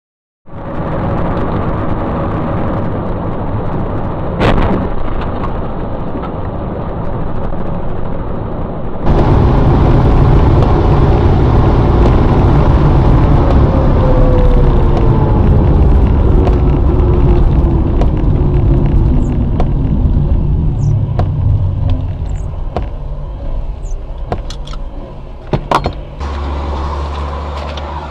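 Car engine and road noise picked up by dash cams while driving, cutting about nine seconds in to a louder recording with heavy low rumble. A falling whine runs through the middle, and a few sharp knocks come near the end.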